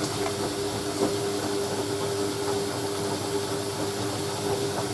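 Hoover A3060 Electronic 1100 washing machine filling fast with water at the start of the first rinse while the drum tumbles: a steady hiss of incoming water over an even hum, with a single knock about a second in.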